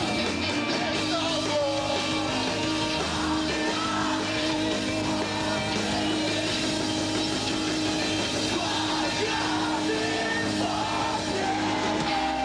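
Emo rock band playing live, full band with a singing voice over it.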